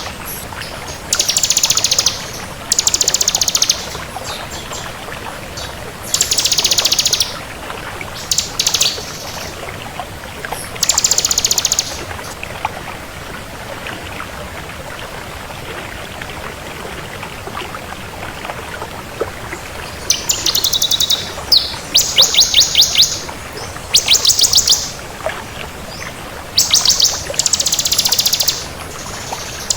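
Bar-winged prinia (ciblek kristal) singing in bursts of a fast, high trill, each about a second long. Several bursts come early, then a pause of several seconds, then a quick run of bursts in the last third, over a steady background hiss.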